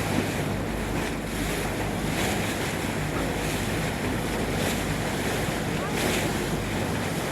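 Wind buffeting the microphone over a steady rush of water at the harbour, a continuous noise with a heavy low rumble.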